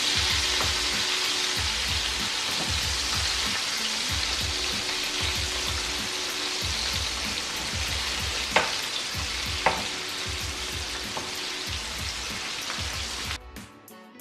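Flour-coated chicken strips deep-frying in a pan of hot oil: a steady, loud sizzle, with two sharp clicks of the metal slotted spoon against the pan a little past halfway. The sizzle cuts off suddenly near the end.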